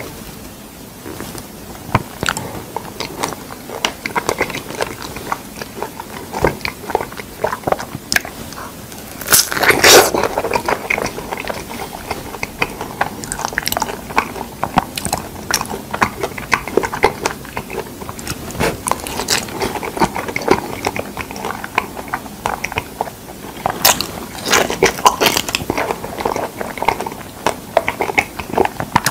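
Close-miked biting and chewing of soft, fresh figs: wet, squelchy mouth sounds and small clicks that go on throughout, with a louder burst about a third of the way in.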